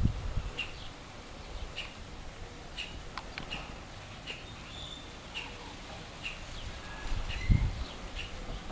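A small bird chirping, a steady series of short, high chirps about once a second. Low rumbles come near the start and about seven and a half seconds in.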